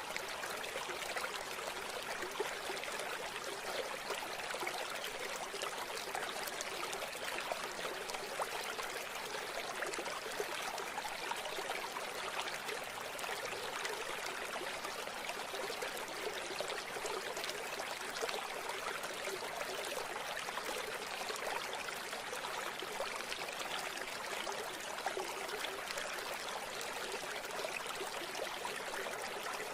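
A river or stream flowing steadily over rocks: a constant, even rush of water, bright and hissy with little low rumble.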